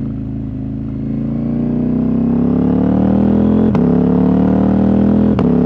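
Husqvarna Norden 901's parallel-twin engine, with its catalytic converter removed, pulling under steady acceleration, its note rising slowly. Near the end the note is broken twice by a brief sharp click.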